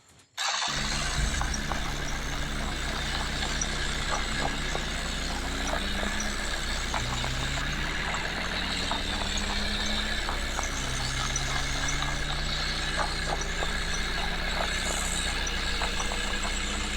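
Tractor engine running and working, its pitch rising and falling as it revs, with a constant clatter of knocks over a low rumble.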